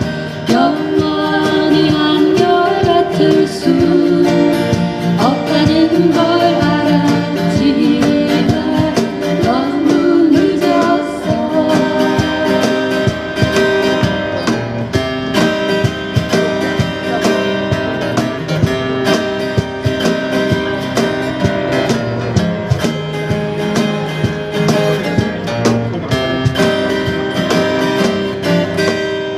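Acoustic guitar strumming chords under a singer. The voice drops out a little over a third of the way in, leaving the guitar playing the outro alone, which fades near the end.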